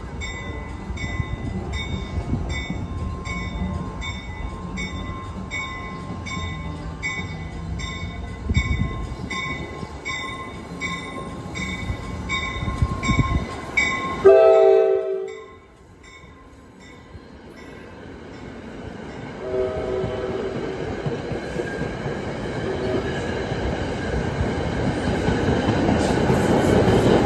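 NJ Transit commuter train arriving, with a bell ringing about twice a second as the cab car approaches. About 14 seconds in, the cab car's horn gives one short, loud blast. After that the rumble of the coaches and the ALP-45DP locomotive pushing at the rear grows louder toward the end.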